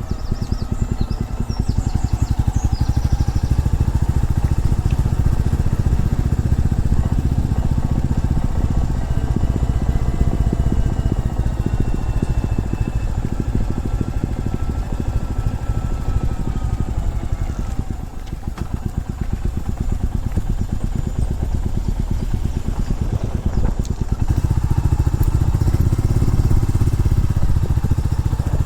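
A motorcycle being ridden, its engine running continuously with a strong low rumble and gently shifting pitch. It eases off briefly about two-thirds of the way through, then comes back louder near the end.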